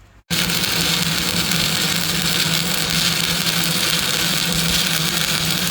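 Stick-welding arc crackling and hissing steadily as an electrode lays the second fill pass of a horizontal multi-pass weld, with a steady low hum underneath. It starts suddenly right at the beginning.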